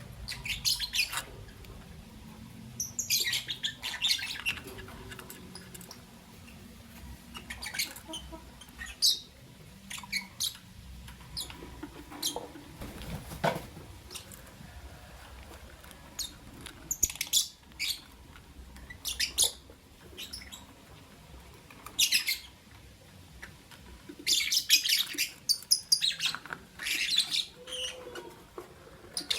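Lovebirds chirping in short, sharp, high-pitched calls, coming irregularly in bursts with the busiest runs near the start and near the end.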